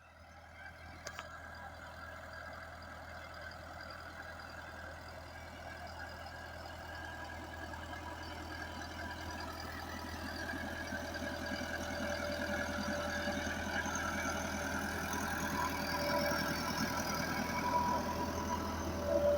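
Massey Ferguson 385 tractor's four-cylinder diesel engine running steadily, slowly growing louder.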